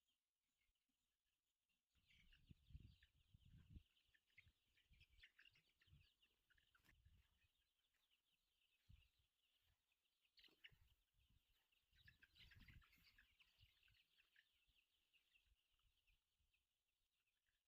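Very faint chatter of many laying hens, a dense scatter of short chirps and calls, with a few low thumps about two to four seconds in.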